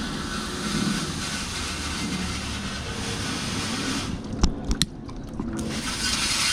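Garden hose spray nozzle on its mist setting, hissing steadily as it sprays water over an air conditioner's outdoor unit. About four seconds in, the spray stops for a moment with a few sharp clicks, then starts again.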